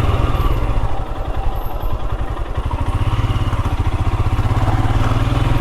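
Motorcycle engine running at low road speed, a steady stream of exhaust pulses that eases off about a second in and picks back up around three seconds in.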